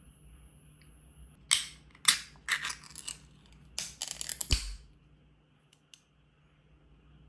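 Packaging crinkling and tearing in several short crackly bursts over about three seconds as purchased sweets are unwrapped.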